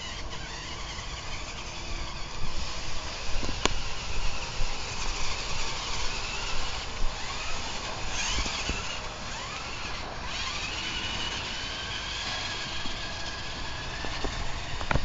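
A toy monster truck's small electric motor whining as it drives, its pitch rising and falling again and again.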